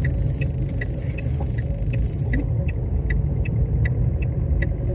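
Steady low rumble inside a parked car, with a light regular ticking about two to three times a second over it.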